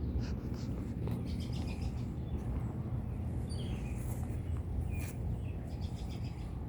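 Birds chirping in short, scattered calls over a steady low rumbling noise of outdoor ambience during light rain.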